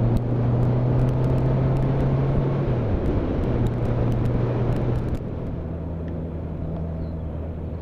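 Motorcycle engine running at road speed with wind and road noise, heard from on the moving bike. The engine note dips briefly about three seconds in, and about five seconds in it drops and the sound gets quieter as the bike eases off.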